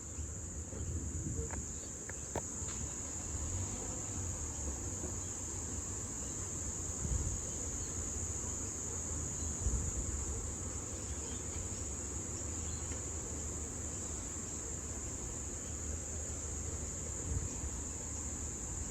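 A steady, high-pitched chorus of insects with a continuous drone, over a low, uneven rumble of wind on the microphone.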